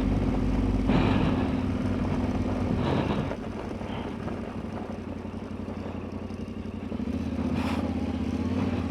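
Yamaha Ténéré 700 motorcycle's parallel-twin engine running as the bike is ridden. The engine drops back a little after about three seconds and picks up again near the end.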